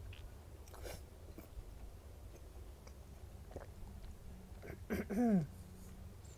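A person chewing a mouthful of golgappa (pani puri), with soft wet clicks and small crunches. About five seconds in comes a short closed-mouth hum that falls in pitch, the loudest sound.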